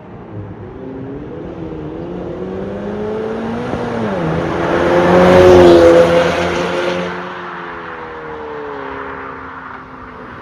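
Ford Kuga EcoBoost's engine heard through an aftermarket MS-R valved cat-back exhaust, with the exhaust note swelling steadily to a loud peak about halfway and then dying away. The pitch wavers and glides as the engine is worked.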